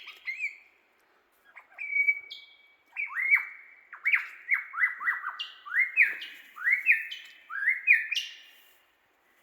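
Lyrebird singing during its display: a long run of loud whistled notes, most of them quick rising sweeps repeated about twice a second, with higher falling notes among them.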